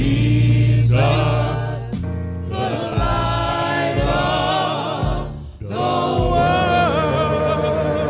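Gospel choir singing in worship with instrumental accompaniment, voices holding and bending long notes over a steady low bass, with a short break about five seconds in.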